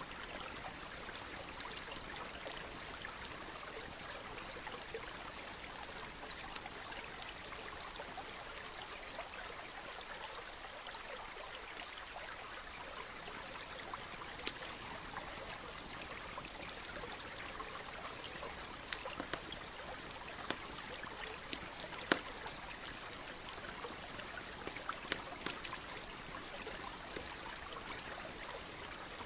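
Campfire crackling, with sharp pops scattered irregularly and the loudest a little before halfway and about three-quarters of the way in, over a steady trickling stream.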